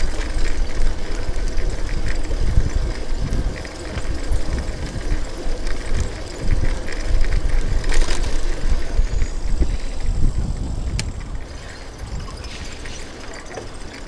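City street noise heard from a bicycle riding through traffic: a loud, uneven low rumble of vehicles and movement, dropping somewhat quieter about three quarters of the way through.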